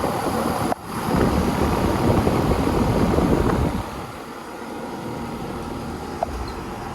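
Rheem Classic Series 3-ton central air conditioner's outdoor condenser running, a steady whir of fan and compressor. Louder for the first few seconds, then settling to a lower, even level after about four seconds.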